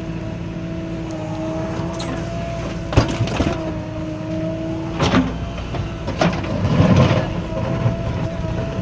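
JCB 3DX backhoe loader's diesel engine running steadily with a constant whine, while the machine works. A sharp clank about three seconds in, then further knocks and thuds around five, six and seven seconds in.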